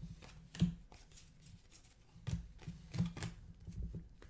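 Trading cards handled and sorted by hand: a scattered run of soft clicks and slides as cards are flipped and laid down, with a sharper tap about half a second in and a few more between two and four seconds in.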